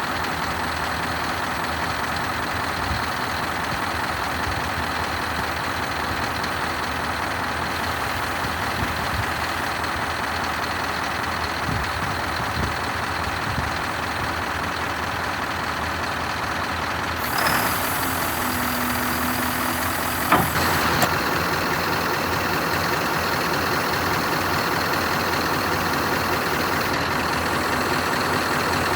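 Scania R560 truck's V8 diesel engine idling steadily. About two-thirds of the way through, a sudden burst of air hiss starts, followed a few seconds later by a couple of sharp clacks.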